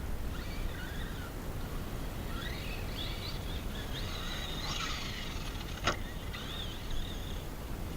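The brushless motor of an RC monster truck whines as the truck speeds up and slows down, its pitch rising and falling. A steady rumble of wind runs underneath, and there is one sharp knock about six seconds in.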